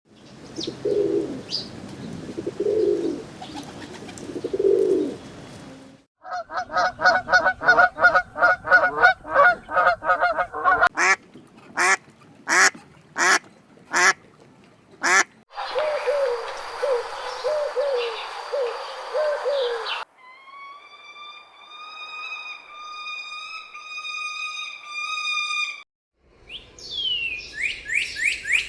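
A run of different birds' calls cut one after another. It starts with low calls, then comes fast chattering, a quick series of sharp notes, a harsher stretch, a row of clear whistled notes, and rising chirps near the end.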